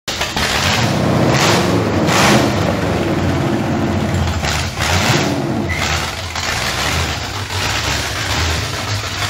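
Demolition derby car's engine running loudly through open upright headers, revved in several short bursts, the strongest about one and a half, two and a half and four and a half seconds in.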